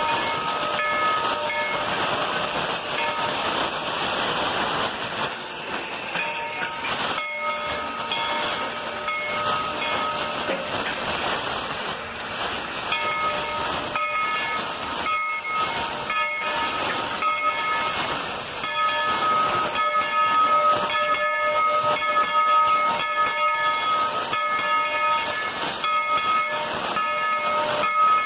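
Narrow-gauge steam locomotive letting off steam: a loud, steady hiss, with thin steady tones sounding over it off and on through the second half.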